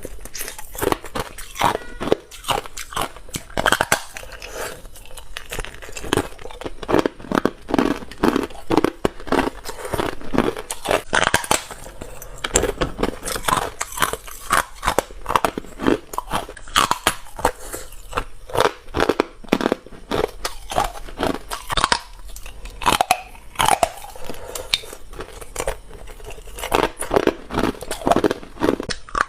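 Ice being bitten and chewed close to the microphone: a continuous run of sharp, rapid crunches and crackles as the pieces break between the teeth.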